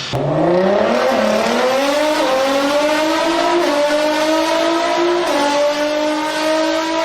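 A performance car engine accelerating hard. The pitch climbs steeply at first, then keeps rising slowly, dipping briefly at each of several upshifts.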